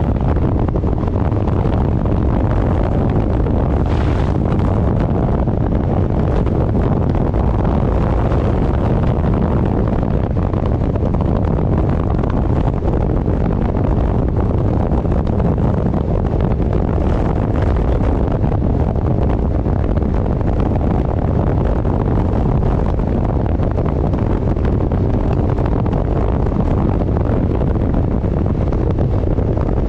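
Heavy wind buffeting the microphone while riding at speed, with the vehicle's running noise underneath; a steady, unbroken rush.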